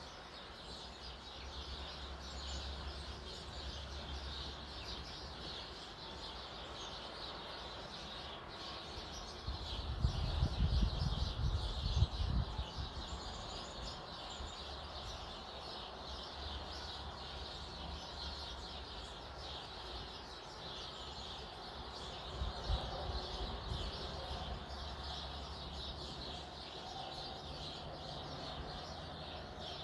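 Many small birds chirping at once, a steady chatter of overlapping high, short chirps. Low rumbling thuds come in about a third of the way through for a couple of seconds, the loudest part, and again more briefly later.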